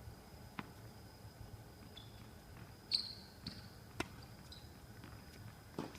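Tennis ball knocks on a court: a handful of sharp racket hits and bounces, a second or so apart, the loudest about three seconds in with a short ringing ping of the strings.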